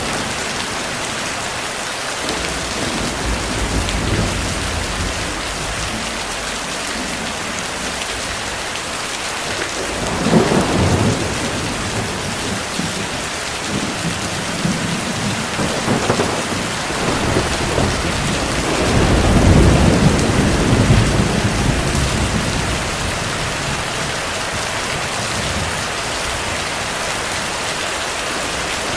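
Steady heavy rain with distant thunder rumbling several times. The longest and loudest roll comes about two-thirds of the way through.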